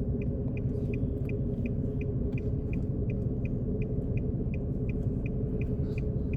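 A car's indicator ticking steadily, about three ticks a second, over the low steady rumble of the idling car heard from inside the cabin.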